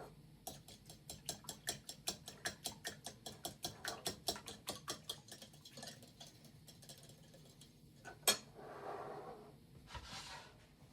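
A quick, even run of light clicks, about six a second, for some five seconds, fading out. Then a single sharp click and a brief soft rustle.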